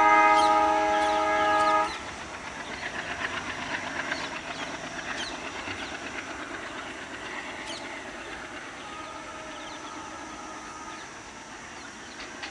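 Passenger train's horn sounding for about two seconds with several tones at once, then the wheels clicking rhythmically over the rail joints as the departing train pulls away and slowly fades.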